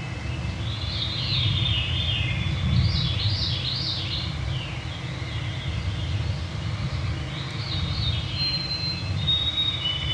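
Songbirds singing at dusk: swirling phrases that slide downward, twice in the first half and again near the end, then long steady whistled notes at the end, over a steady low rumble.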